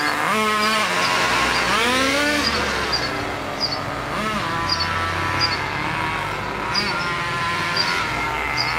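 Exceed RC monster truck motor revved in short bursts, its whine rising and falling in pitch about six times.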